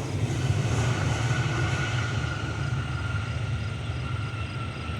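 Jet engine noise from a Boeing 767-400ER on the ground after landing: a steady low rumble with a thin whine that sinks slightly in pitch.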